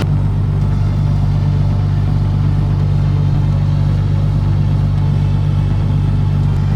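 Diesel engine of a Volvo L260H wheel loader running at steady revs, a loud, even low hum with no change in pitch.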